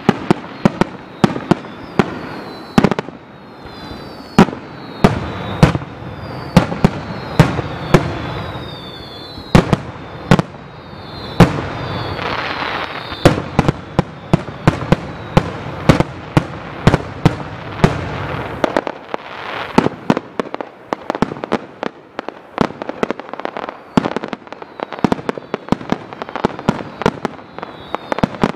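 Aerial fireworks going off in a rapid barrage: sharp bangs, often several a second, over a continuous rumble, with short falling whistles.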